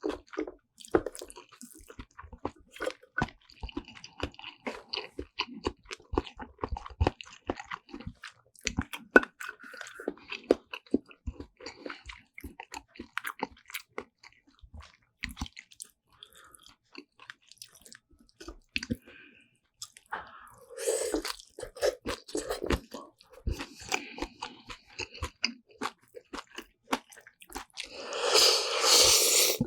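Close-miked chewing of a meal of black bean noodles and kimchi, with many irregular wet mouth clicks and crunches. In the second half a few louder, longer noisy bursts stand out.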